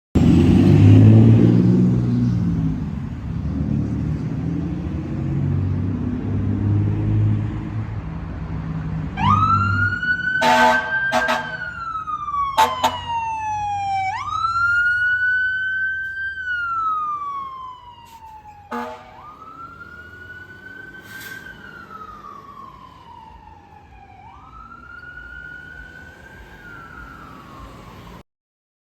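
Fire engine pulling out on a call. Its engine rumbles heavily for the first several seconds, then its siren wails in four cycles, each a quick rise and a slow fall, broken by short air-horn blasts. The sound grows fainter in the second half as the truck moves away.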